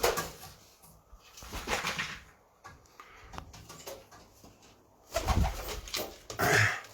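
Domestic pigeons cooing in several short bouts, the loudest near the end.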